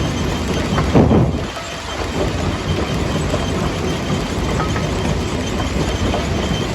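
Jaw crusher crushing stone: a continuous heavy clatter and grinding of rock between the jaws, with one louder crunch about a second in.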